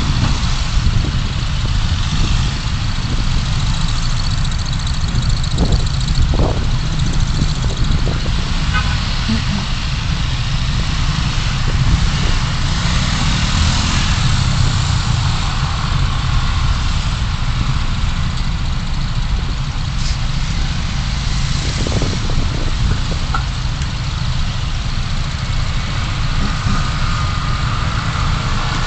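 Steady low rumble of a car driving in city traffic: engine and tyre noise with an even hiss, as picked up by a dashcam.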